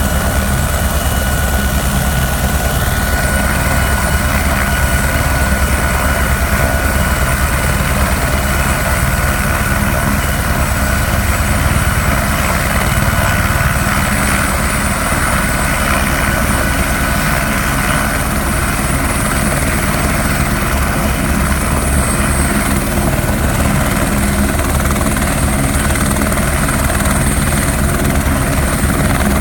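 Helicopter running steadily, a constant high whine over a dense low drone.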